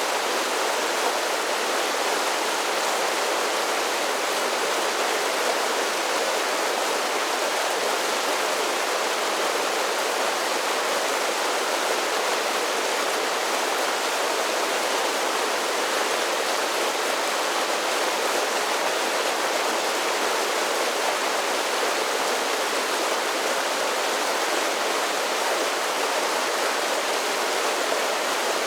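Mountain creek tumbling down a series of small waterfalls: a steady rush of water that stays even throughout, with little deep rumble.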